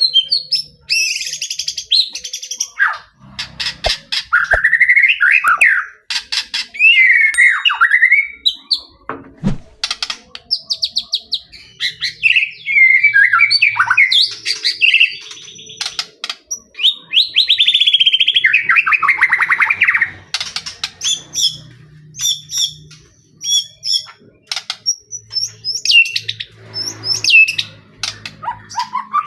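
White-rumped shama (murai batu) singing vigorously. It runs through varied whistled phrases, gliding notes, fast trills and runs of sharp clicking notes, with short pauses between phrases.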